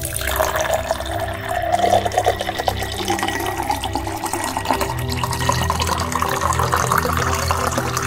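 Liquid being poured steadily into a container, a continuous splashing pour that rises slowly in pitch as the container fills.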